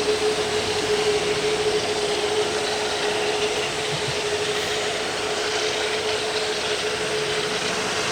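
Airbus A380's four Rolls-Royce Trent 900 jet engines at takeoff power: a steady roar with a steady hum.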